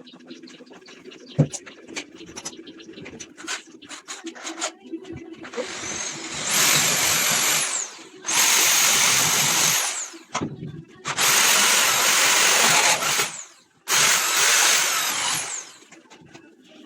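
A power tool, most likely an electric drill, run in four bursts of about two seconds each; its motor whine rises as it spins up and falls as it stops. Before the bursts come handling clicks and knocks, the loudest a single sharp knock.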